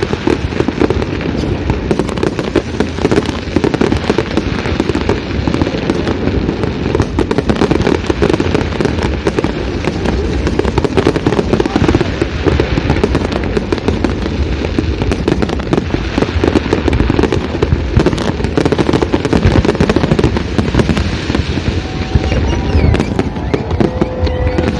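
Fireworks display: a dense, continuous barrage of bangs and crackles with no break. A few thin whistling tones come in near the end.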